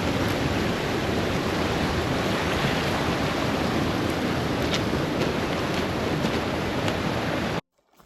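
Waterfall rushing in a steady, loud roar of falling water that cuts off suddenly near the end.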